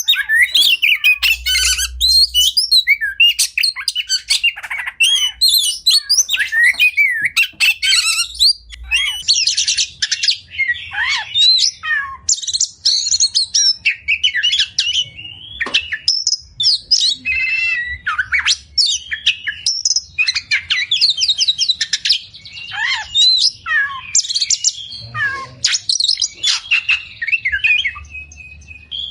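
Oriental magpie-robin (kacer) singing without a break: a rapid, varied song of whistles, trills and harsh chattering notes, packed with mimicked phrases.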